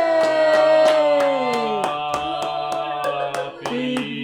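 A group of people singing and cheering, their voices sliding down in pitch in the first two seconds, while hands clap a steady beat of about four claps a second.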